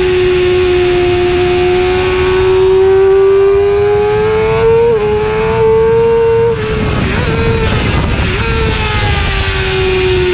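A 2009 Yamaha R6's 600 cc inline-four racing engine running flat out at very high revs, heard from onboard over wind rush. The pitch climbs, steps at a gear change about five seconds in, and drops as the throttle shuts. Two quick rev blips follow, like downshifts, and the engine then pulls hard and climbs again near the end.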